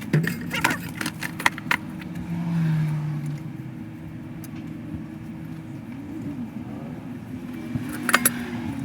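A motor running steadily, with sharp metallic clinks and knocks over it in the first couple of seconds and again near the end.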